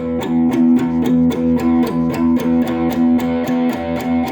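Guitar played with fast, even picking, about six strokes a second, over a steady held low note.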